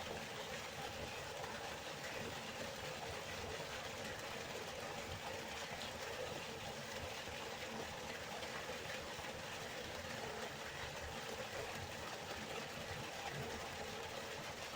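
River water flowing, a steady, even rushing without breaks.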